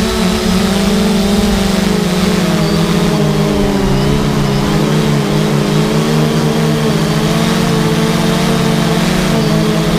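3DR Solo quadcopter's motors and propellers whirring steadily in flight. Its hum holds several close pitches that waver and shift slightly as the rotors adjust speed.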